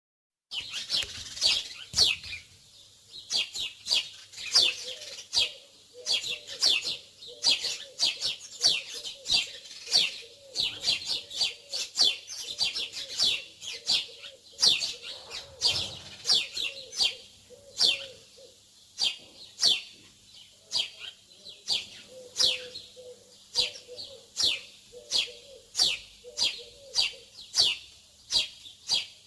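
Small birds chirping: a dense run of short, sharp, downward-sweeping chirps, several a second. In long stretches there is a fainter, lower repeated call underneath.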